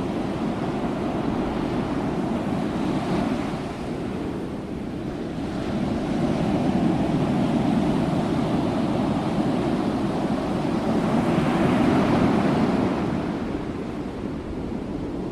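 Sea waves surging in and drawing back: a continuous rushing surf that slowly swells, is loudest through the second half, and eases off near the end.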